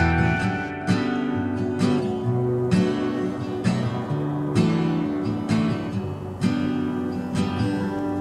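Acoustic guitar strumming chords, about one strum a second, each chord ringing on into the next, with no singing.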